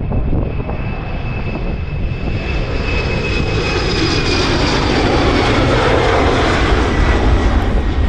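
Embraer E190 jet on its takeoff run, its CF34 turbofans building to a roar with two high whining tones that slowly fall in pitch, over heavy wind rumble on the microphone.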